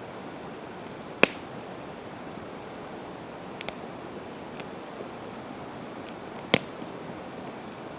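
Campfire of split evergreen wood crackling over a steady hiss, with two loud sharp pops, about a second in and near the end, and scattered smaller ticks between.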